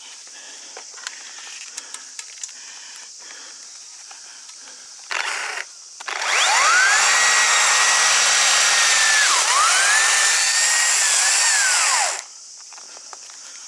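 Chainsaw: a short throttle blip about five seconds in, then revved up and held at full speed for about six seconds, dipping once midway, as it cuts into the tree, before the throttle is released and the engine falls away.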